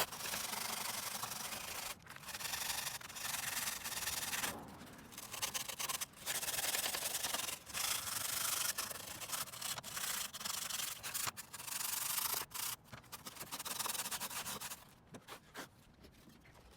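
Square sanding block rubbed back and forth over rigid foam insulation board, smoothing out a routed notch for the glass to sit in. The sanding comes in stretches of a second or more with brief pauses and dies down near the end.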